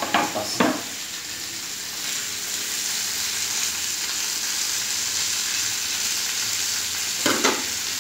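Meat and sausage sizzling steadily in hot pans on a gas stove, with a metal utensil clinking against the pan a few times in the first second and again near the end.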